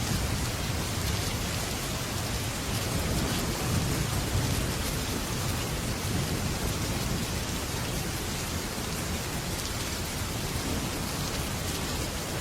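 Heavy rain drumming steadily on a metal roof, with a low rumble of thunder swelling in the first few seconds and fading.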